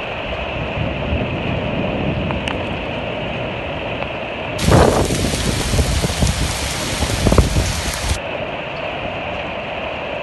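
Heavy rain pouring steadily. About four and a half seconds in, a louder stretch of rain with low gusty rumbling lasts about three and a half seconds, then the steadier rain sound returns.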